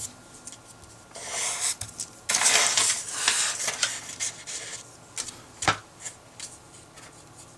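Paper being rubbed and rustled on a desk with small pen and desk clicks: two stretches of rasping rustle in the first five seconds, then a single sharp click a little under six seconds in.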